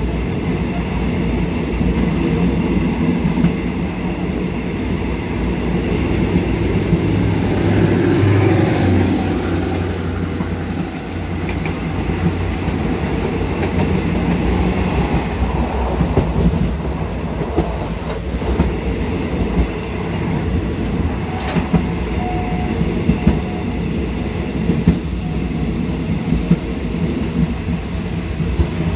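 A moving passenger train, heard from its rear car: a steady rumble of wheels on the rails, with sharp clicks from the wheels on the track at uneven intervals.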